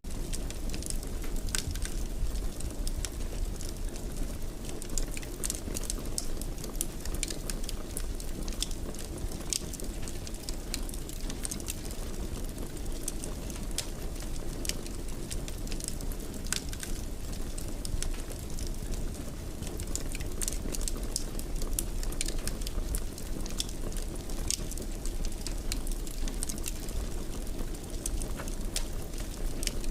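Wood fire crackling in a fireplace: frequent, irregular sharp snaps and pops over a steady low rumble of the flames.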